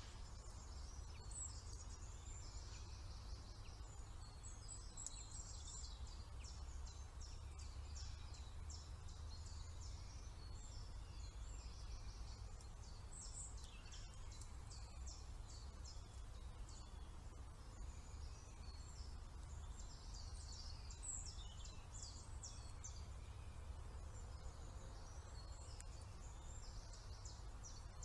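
Faint woodland birdsong: many small birds chirping and trilling in short, high phrases throughout, over a low steady rumble.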